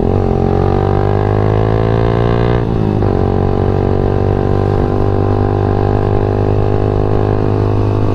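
Yamaha MX King 150's single-cylinder four-stroke engine running under way: the revs climb steadily for about two and a half seconds, drop sharply, then hold steady.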